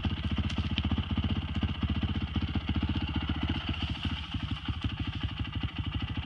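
Dirt bike engine running steadily at low revs, a fast even pulse with no revving.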